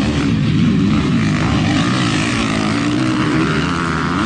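Several motocross dirt bike engines racing around the track, their pitches rising and falling as the riders work the throttles.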